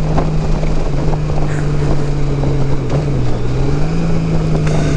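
2018 Honda Gold Wing Tour's flat-six engine running at road speed through modified stock mufflers, with wind rushing past. The engine note dips slightly about three seconds in, then picks up again.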